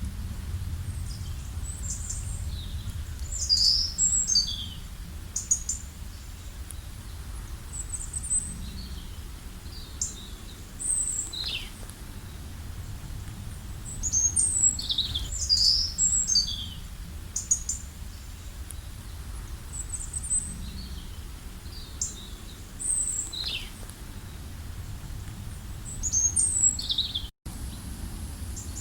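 Songbirds chirping and calling: short high notes, many falling in pitch, in bursts about 3–5 s, 14–16 s and 26–27 s in, over a steady low rumble. The audio drops out for a split second near the end.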